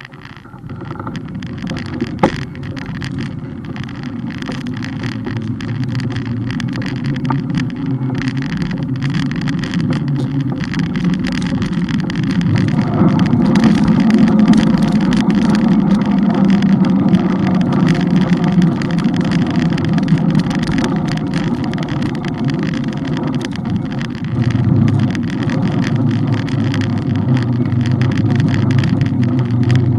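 Steady wind and road rumble on a bike-mounted camera during a ride, with frequent small rattling clicks from the mount and bike. It cuts in suddenly at the start and swells a little partway through.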